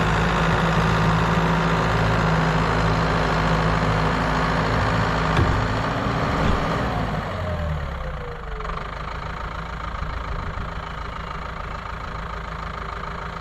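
Tractor engine running steadily under load, then its revs falling away to a quieter idle about halfway through, with a couple of short knocks just before.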